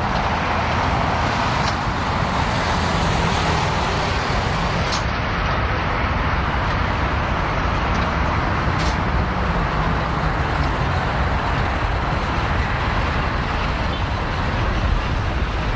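Boeing 787-10 jet engines at takeoff thrust: a loud, steady roar during the takeoff run and climb-out.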